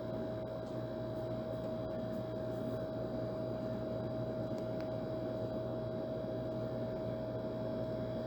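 Old air conditioner running steadily: an even rushing noise with a constant mid-pitched hum over a lower drone.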